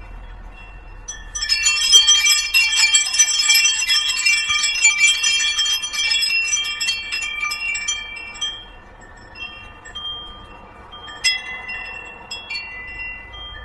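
Small metal chimes jangling: a dense flurry of overlapping ringing tones starting about a second in, thinning out after about eight seconds, with one sharper strike near the end.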